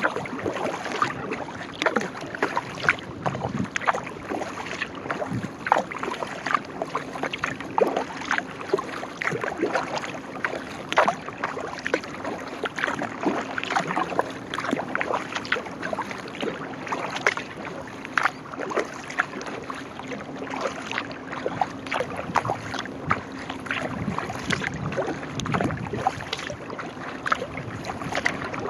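Sea kayak being paddled: the paddle blades dip and splash through the water in a continuous run of short, irregular splashes.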